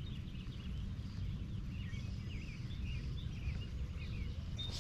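Birds chirping and singing in many short, rising and falling calls over a steady low rumble of outdoor background noise.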